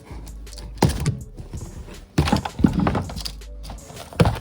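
A boat's bow storage cubby cover being popped off and handled: four knocks and thunks at uneven spacing, over background music.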